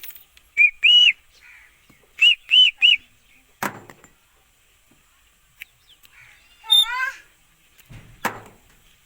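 A parrot giving short, clear whistled calls: two near the start, then three quick ones about two seconds in. A few sharp clicks and one brief wavering call follow later.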